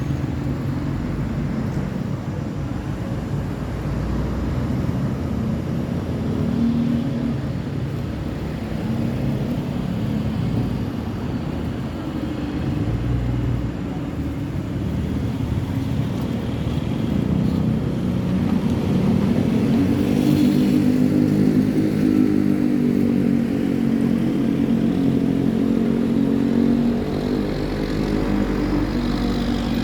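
Continuous city road traffic, with motorcycles and cars passing. About two-thirds of the way in, a heavier engine's low drone grows louder and then eases off.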